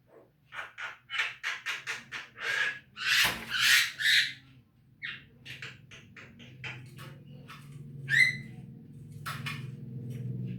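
Javan myna (jalak kebo) calling: a quick run of short chattering notes, loudest about three to four seconds in, then scattered notes and a rising call about eight seconds in.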